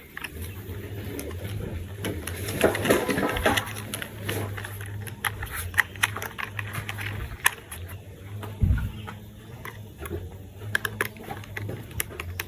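Plastic toy parts being handled and snapped together: scattered sharp clicks and small rattles over a steady low hum.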